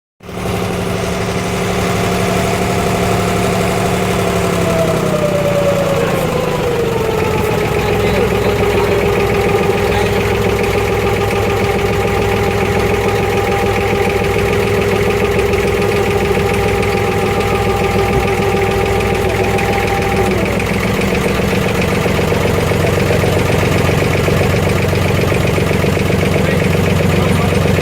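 Boat engine running steadily, its tone dropping in pitch about five seconds in and then holding.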